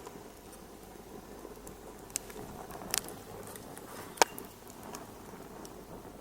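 Wood fire crackling in a fireplace: a steady low hiss with a few sharp pops, the loudest about four seconds in.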